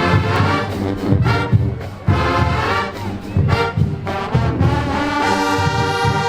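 Marching band playing: sustained brass chords over repeated low beats.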